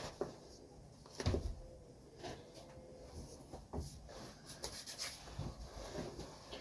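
Faint, irregular rustling and soft knocks of a guinea fowl carcass being handled and its feathers plucked, with a slightly louder bump about a second in.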